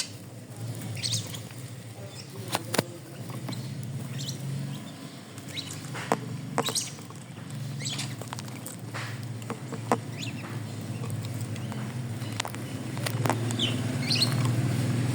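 Pet bird giving short, high chirps every few seconds, mixed with a few sharp clicks or taps, over a steady low hum.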